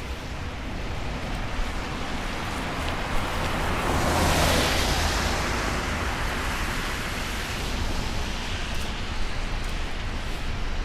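A vehicle passing on a wet road: tyre hiss swells about four seconds in and fades over the next few seconds, over a steady low rumble of outdoor noise.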